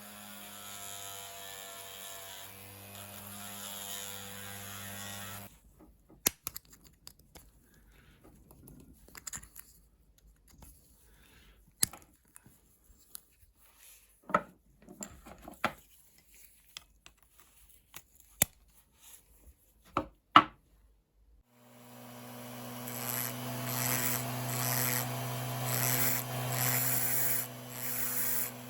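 A small electric power tool runs steadily for about five seconds and stops. Then come scattered sharp clicks and knocks of tools and parts being handled. About 22 seconds in, the power tool starts again and runs steadily, louder than before.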